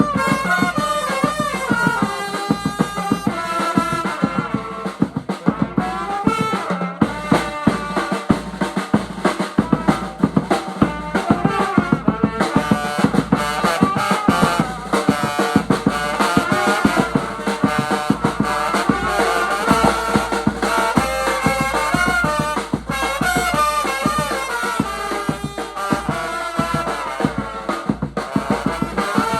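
Vietnamese funeral band music (nhạc tây) playing a tune: a wavering brass melody over a busy drum-kit beat with snare and bass drum.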